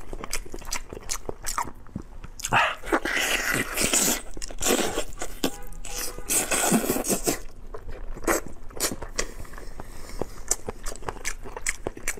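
Close-miked wet chewing and biting of braised pig snout: smacking lips with many sharp clicks, and two louder stretches of noisy chomping about three and seven seconds in.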